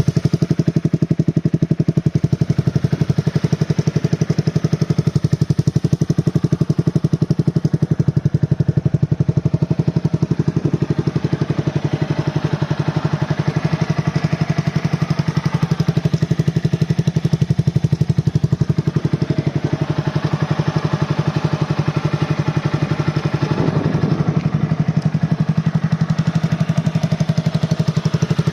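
Honda CBR250R motorcycle with an aftermarket exhaust, its engine idling steadily with an even, rapid pulse.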